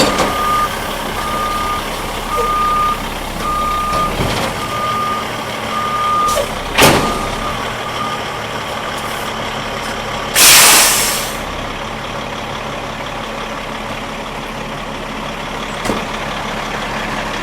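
Semi truck tractor reversing with its backup alarm beeping about twice a second, plus a loud clunk about seven seconds in; the beeping stops about eight seconds in. A loud, short air hiss follows a couple of seconds later, typical of the air brakes being set, while the engine keeps running.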